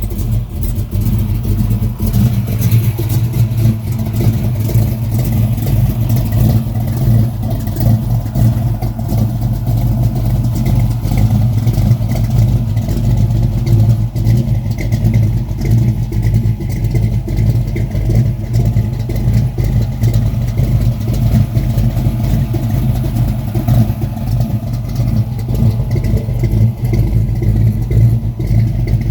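Car engine running at a steady idle just after a cold start on a very cold morning.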